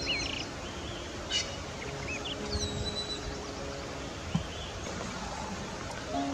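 Small birds giving short, quick chirps and whistles, mostly in the first few seconds, over a steady outdoor hiss with soft sustained music notes underneath.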